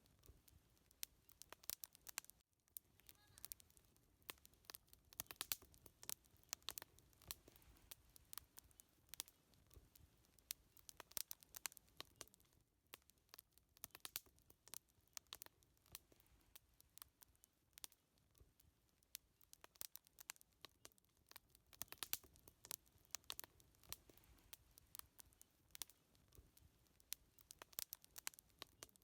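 Wood fire crackling and popping: dense, irregular sharp snaps over a faint low rumble of the burning fire.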